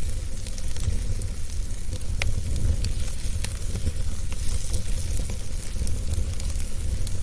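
Wood fire burning in a fireplace: a steady low rumble and hiss with scattered sharp crackles and pops, a few each second.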